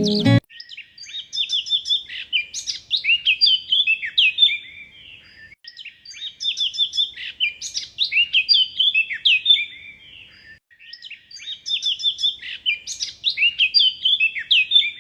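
A songbird singing rapid phrases of sliding chirps and trills, in three bouts of about four seconds each with short pauses between them.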